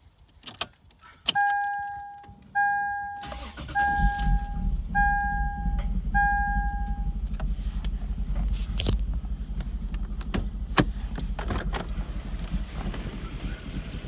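Car warning chime beeping five times, then the 2002 Lexus IS300 SportCross's inline-six comes to life about three seconds in. It settles into an uneven, rough idle.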